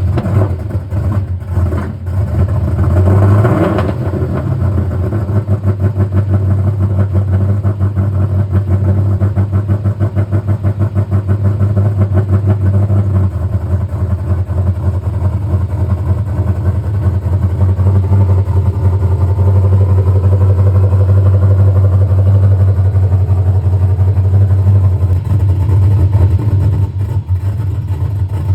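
Car engine just started: it revs up briefly a few seconds in, then settles into a loud, steady idle with a rapid even pulse.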